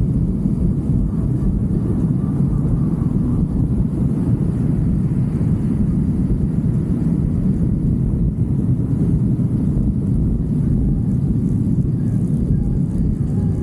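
Steady low rumble of a motorcycle under way at road speed, with wind buffeting the microphone.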